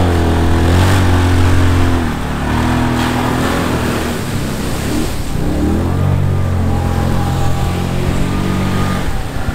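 Vehicle engine running hard, its pitch dropping about two seconds in and then climbing again as it revs back up.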